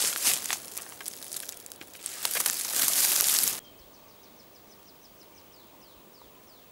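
Loud crackling rustle of dry forest-floor litter being disturbed, which cuts off abruptly a little over halfway through. After it, a bird sings faintly: a quick run of short, falling chirps.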